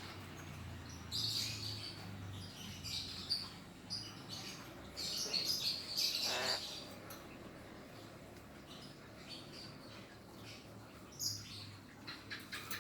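Pet lory (nuri parrot) giving short, high chirps on and off, with one louder call about six seconds in, over a faint steady low hum.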